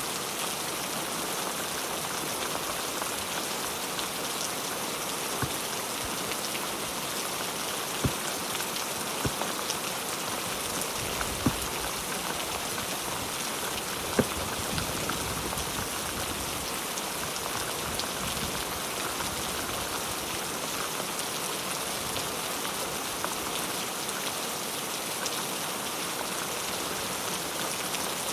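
Steady rain falling, with a handful of sharper ticks standing out, the loudest about fourteen seconds in.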